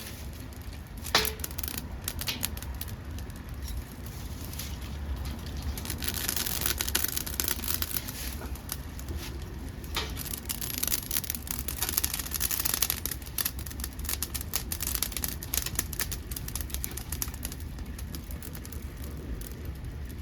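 Dead podocarpus wood burning in a homemade pail-can wood gas stove, crackling with many sharp pops. The crackling is densest in the middle, with a louder pop about a second in and another around halfway.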